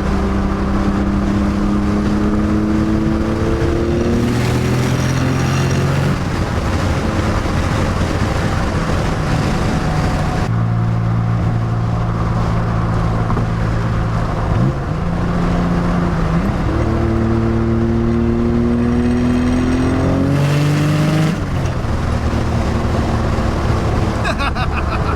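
Nissan 300ZX twin-turbo V6 running hard under acceleration: the note climbs in pitch as it pulls, then drops suddenly at gear changes near 4 s and 21 s. A brief rush of noise comes at those shifts from the open-dumped wastegates. There is a drop near 10 s and a quick rev blip near 15 s.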